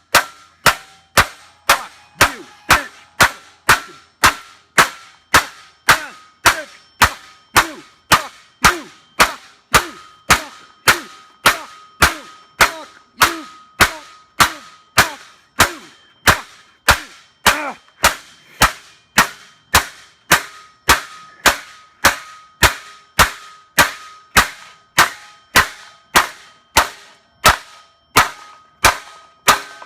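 Hammer blows on a steel car exhaust pipe, about two a second, each a sharp clang with a short metallic ring. The pipe is being beaten out of round to make a badly fitting exhaust fit.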